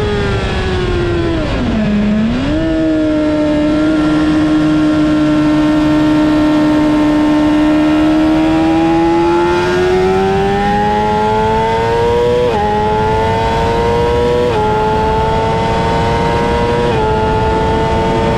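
Honda CBR600RR's inline-four engine at full track pace. The revs drop steeply under braking into a corner about two seconds in, then hold steady through the bend. It then winds up hard in the high-revving scream typical of a 600 cc four, with three quick upshifts near the end, each a sudden dip in pitch that climbs again.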